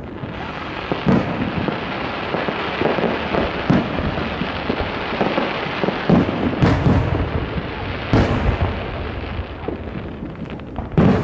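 Aerial fireworks display: a dense, continuous crackle of many small bursts, with several louder booms standing out every couple of seconds.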